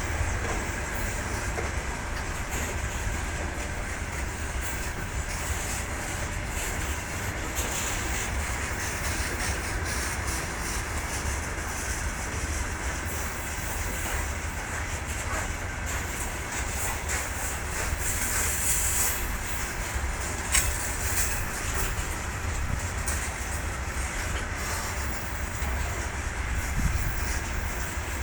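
Freight train rolling steadily past, its wagon wheels running on the rails in a continuous rumble, with a few brief sharp clicks.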